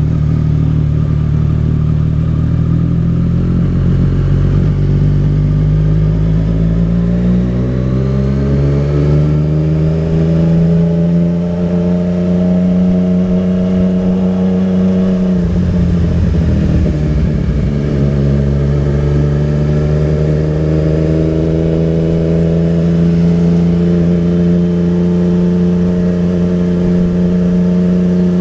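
Yamaha MT-09 Tracer's inline three-cylinder engine running under load. Its note climbs steadily for several seconds, drops suddenly about halfway through with a short rough patch, then holds steady.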